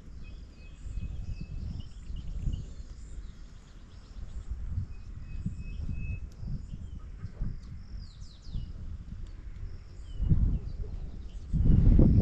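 Wild birds chirping and calling, with a few held whistled notes, over a steady low rumble. From about ten seconds in, louder low thumps take over.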